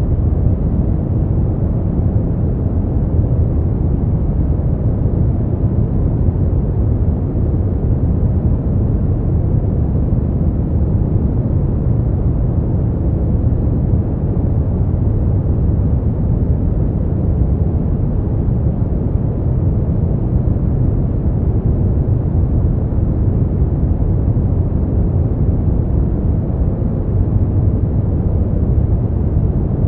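Brown noise: a steady, deep rumbling hiss, strongest in the low end and with no highs, unchanging throughout.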